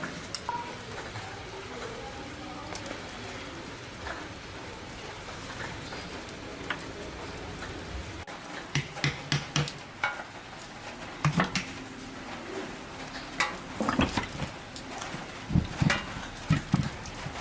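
Metal parts and hand tools clinking and knocking against each other over a steady hiss. The knocks come sparsely at first, then in quick clusters through the second half.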